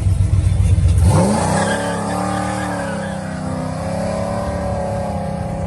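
Car exhaust through Borla mufflers, running loud with a deep low rumble. About a second in, the engine note rises as it revs, then settles into a steady drone.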